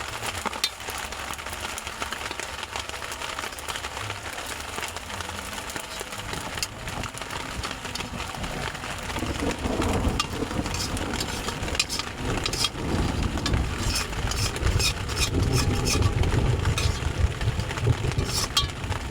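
Clicks and scrapes of a utensil against a cooking pan as fried rice is dished out, over steady outdoor noise with a low rumble that grows louder about halfway through.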